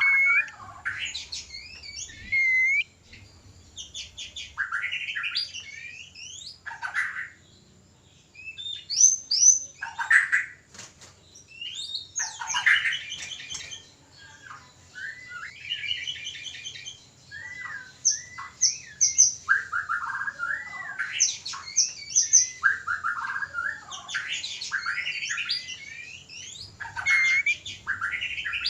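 White-rumped shamas calling in breeding condition: rapid, varied whistled phrases, quick trills and harsh chattering notes in bursts of a second or two, with short pauses between.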